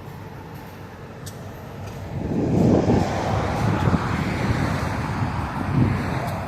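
Road traffic: a low rumble, then a motor vehicle passing close by, louder from about two seconds in.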